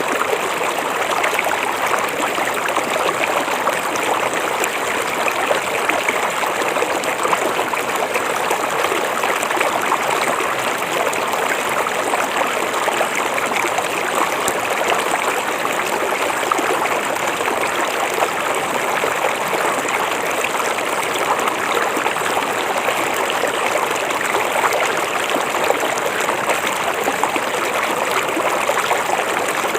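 Shallow river or stream flowing steadily over stones, with a constant babbling rush of water.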